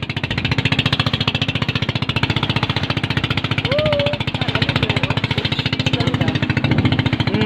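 Motorboat engine running steadily at speed, a fast even pulsing with a low hum, with a brief voice calling out about four seconds in.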